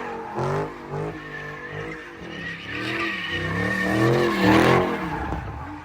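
A car engine revs up and down over and over while its tyres squeal in a steady high tone as the car slides under power.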